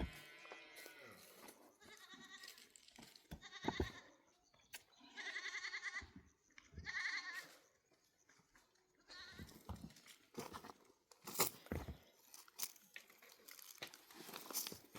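Goats bleating: several quavering bleats in the first half, the longest lasting about a second. Scattered light clicks and crunches follow.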